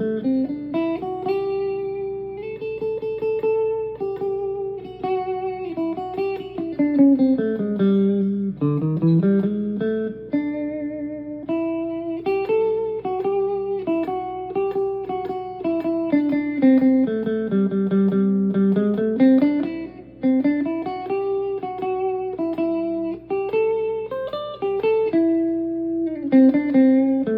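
Electric guitar played through a Peavey amplifier: single-note melodic lines, with notes sliding and bending from one pitch to the next.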